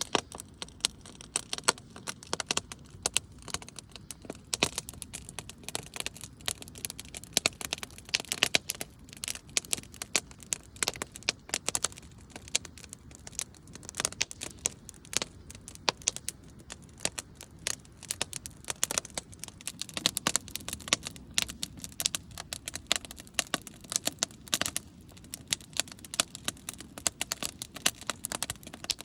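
Campfire crackling: wood burning with many sharp, irregular snaps and pops, several a second, over a soft steady low background.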